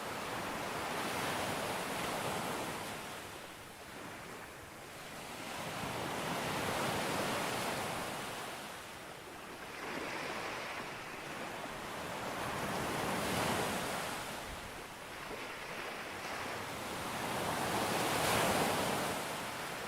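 Sea waves breaking on a beach and washing back, the surf swelling and fading about every five seconds, four surges in all.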